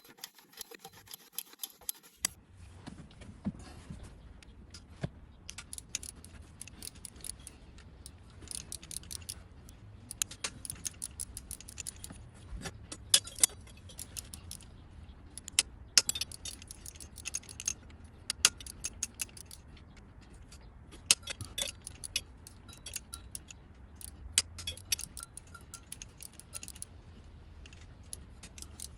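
Metal hand tools clicking and clinking in irregular clusters as the intake manifold bolts are worked loose.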